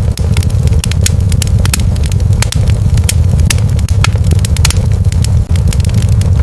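Wood fire in a fireplace crackling and popping: many sharp, irregular snaps over a steady low rumble.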